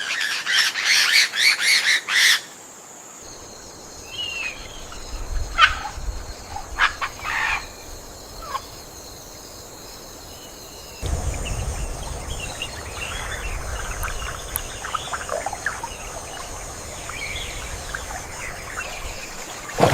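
Rainforest birds calling: a burst of loud, rapid chattering calls in the first two seconds, then scattered calls over a steady high hum. The background changes abruptly twice, and a low rumble joins about eleven seconds in.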